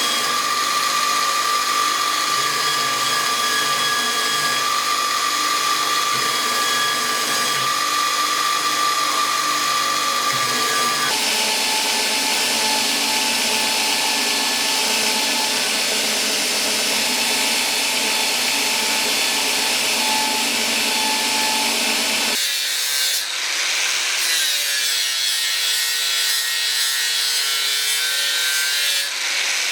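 A power tool running steadily with a whine whose pitch shifts abruptly twice.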